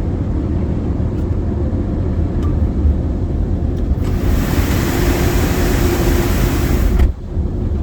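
Ryko SoftGloss XS automatic car wash heard from inside the car: a steady low rumble, then about four seconds in a loud hiss of the wash's jets over the car that stops abruptly about three seconds later.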